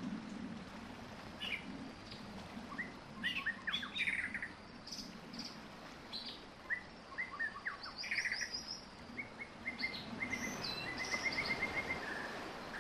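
Several songbirds chirping and calling in short, varied phrases over a soft low background hum, with a fast trill of rapidly repeated notes near the end.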